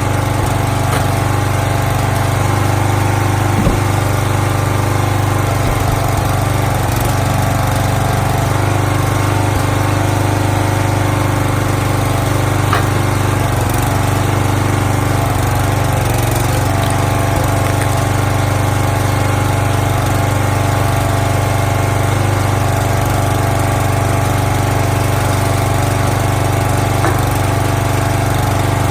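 Small gas engine of a firewood log splitter running steadily, with an occasional faint click or knock.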